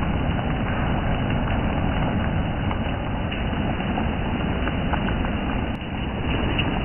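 Steady rain, with wind rumbling on the microphone and a few faint drips ticking through it.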